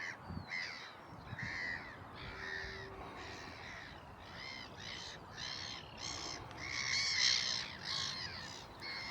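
Birds calling: many short, harsh calls from several birds overlapping in quick succession, loudest about seven seconds in.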